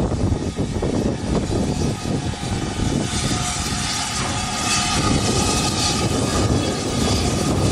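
A train on a heritage steam railway running by: a loud, steady rumble with a thin steady tone above it.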